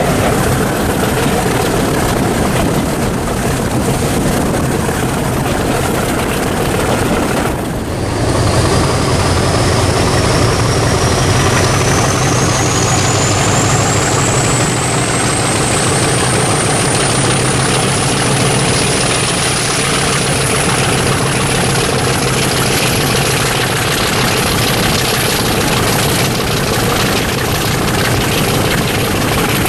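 Heritage British Rail diesel locomotive engine running steadily. After a brief break about eight seconds in, the engine is louder and a thin high whine rises slowly in pitch over the next ten seconds or so.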